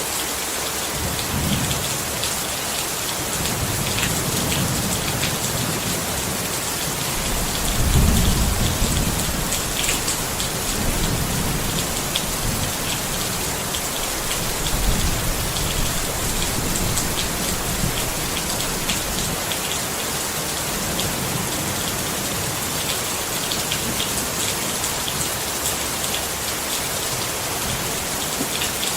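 Steady rain falling on a tent, with fine drop ticks on top. Low rumbles of thunder swell under it several times, loudest about eight seconds in and again around fifteen seconds.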